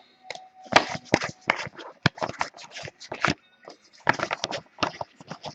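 Trading cards being flicked through by hand: a quick, irregular run of small snaps, clicks and scrapes as cards slide off one another.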